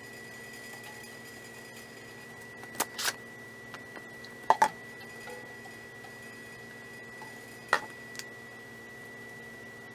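Several short, sharp metallic clinks and taps of tools and metal parts being handled, with a close pair about halfway through, over a steady faint high-pitched hum.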